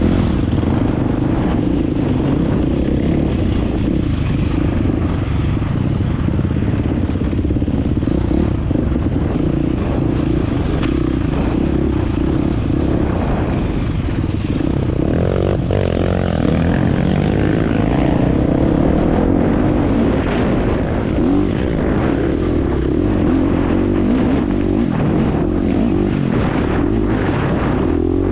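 Dirt bike engine running steadily under way, its note shifting a little about halfway through, with a few sharp clicks over it.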